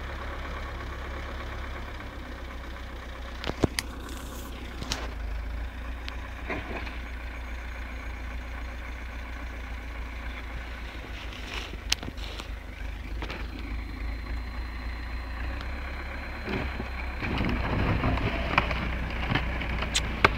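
Car running with a steady low engine and road rumble, with a few sharp knocks through it and a louder stretch near the end.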